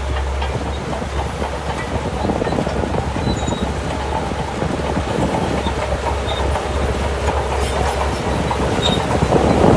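Shantui DH17C2 crawler bulldozer's diesel engine running steadily with a low drone, growing slightly louder near the end.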